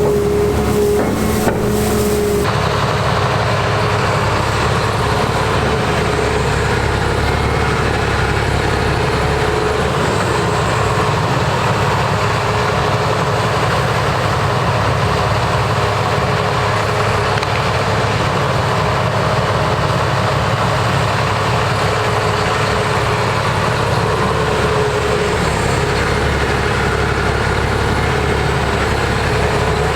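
Diesel engine of a Caterpillar 336E excavator running steadily. A high hiss over it stops about two seconds in.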